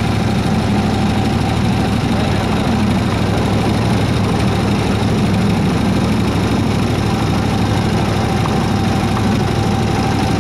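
The engine of a 7¼-inch gauge miniature Baldwin S-12 locomotive runs steadily with an even, rapid beat and a steady hum.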